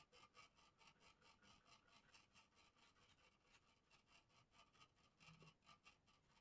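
Faint, quick back-and-forth rubbing strokes, about four or five a second, as a bird-cage part is smoothed by hand.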